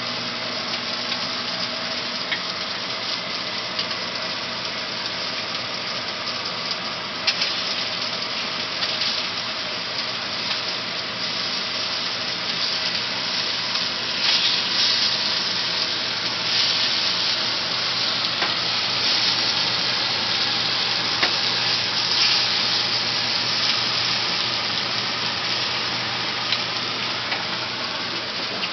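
Sea scallops sizzling as they sear in a nonstick frying pan, a steady hiss. About halfway through, a spatula turns them and the sizzling gets louder for several seconds. A faint steady hum runs underneath.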